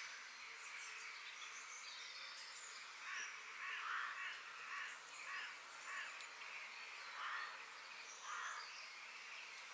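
Forest ambience with birds calling. About three seconds in, a series of short, rough calls starts and repeats roughly every two-thirds of a second, over faint high chirps and a steady hiss.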